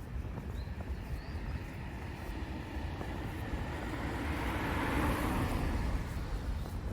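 A road vehicle passing by: its noise swells to a peak about five seconds in, then fades, over a steady low rumble.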